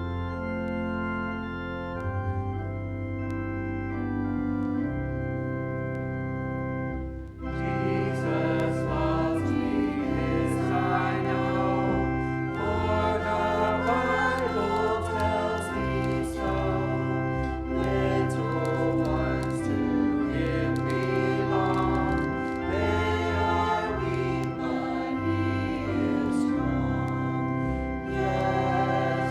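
Organ music with held chords. About seven seconds in, voices begin singing along with the organ.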